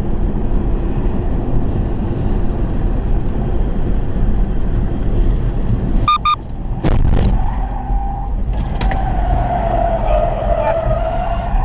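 Loud, steady road and engine rumble of a moving vehicle as picked up by a dashcam. About six seconds in there is a short pulsed beep, then a few sharp clicks, and a wavering high squeal that dips and rises again over the last few seconds.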